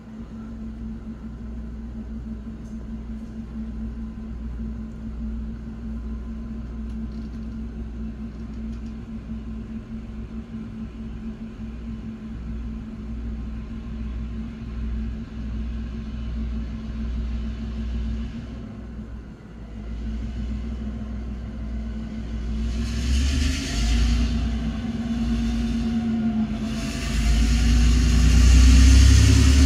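Freight train locomotive holding a steady low drone while standing. About two-thirds of the way through, the engine's sound swells and grows much louder in surges as it powers up to pull the long freight train away.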